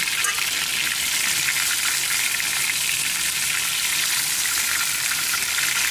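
Batter-coated fish shallow-frying in hot oil in a pan: a steady sizzle.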